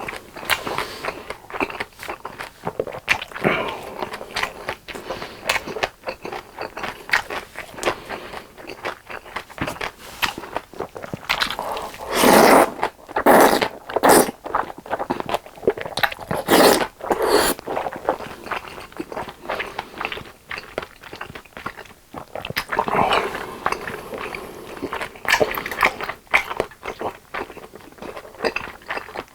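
Close-miked eating sounds: biting and chewing food, with rapid small wet clicks and smacks and several louder noisy bursts near the middle.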